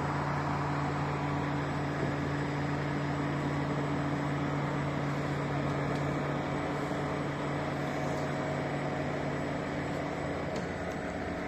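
Large truck's engine idling with a steady low hum.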